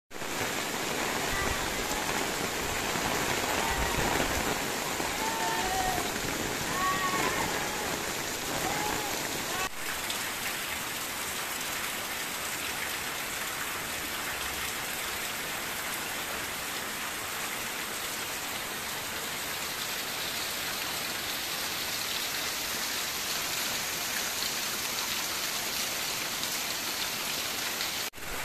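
Rain falling steadily and pattering on surfaces, a little louder in the first ten seconds.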